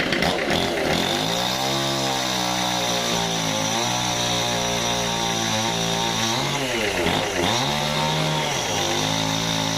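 Sawmill saw running and cutting wood, its motor's pitch sagging and recovering a few times as it takes the load, with a steady high whine above.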